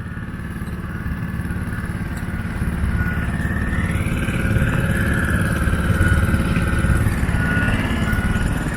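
A motor running steadily, getting louder over the first several seconds, with a thin high whine on top.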